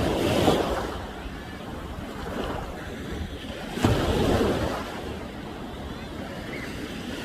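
Ocean waves breaking on the shore at high tide, two louder surges about four seconds apart, with wind buffeting the microphone.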